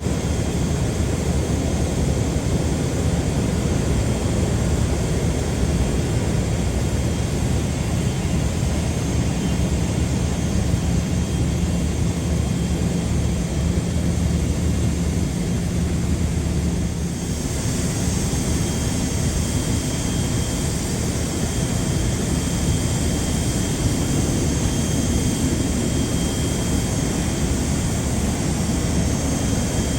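Jet airliner engines with a steady low rumble. About two-thirds of the way through the sound changes: the low hum drops out and a higher hiss and whine come in.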